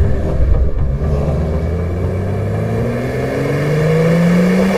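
BMW car with an M Performance silencer (exhaust) system accelerating, the engine and exhaust note rising steadily in pitch.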